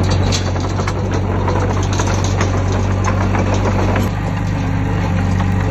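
Heavy earthmoving machine's diesel engine running steadily, with a few short knocks and clanks scattered through it.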